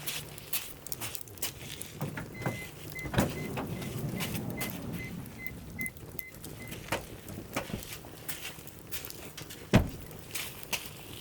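Firewood crackling and popping as it burns in a Uniflame firewood grill, with one loud snap near the end. For a few seconds from about two seconds in, a low rumble and a steady repeating high beep sound, then fade.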